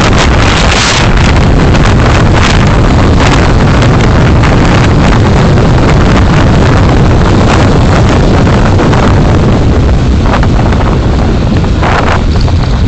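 Steady, loud road and wind noise from a moving car, heard through a dashcam microphone, with wind buffeting the mic.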